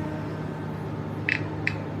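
Komatsu PC350LC excavator's diesel engine running steadily at a low hum, with two short sharp clicks about a third of a second apart near the end.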